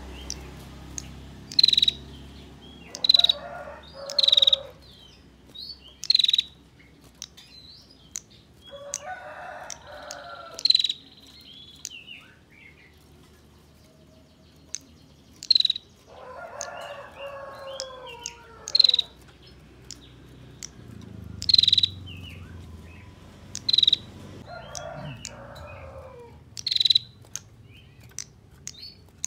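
Female prinia (prenjak) giving sharp, high, buzzy calls in quick repeated bursts, one every one to three seconds. A rooster crows four times in the background, lower and longer than the bird's calls.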